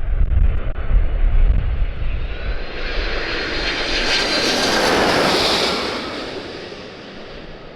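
Landing aircraft passing low overhead on approach. Its engine noise swells to a peak with a high whine about four to five seconds in, then fades as it moves away. Wind buffets the microphone through the first couple of seconds.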